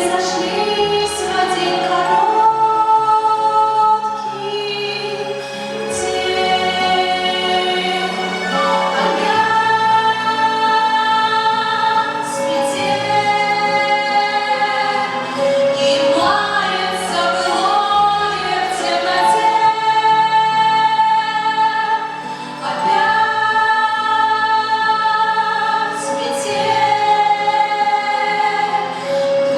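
A song sung by female voices in a group, with long held notes over instrumental backing.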